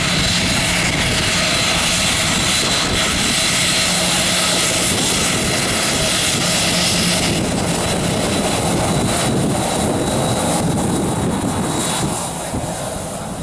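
Boeing 737's turbofan jet engines running at taxi power: a loud, steady rush with a thin whine. The high hiss drops away about halfway through.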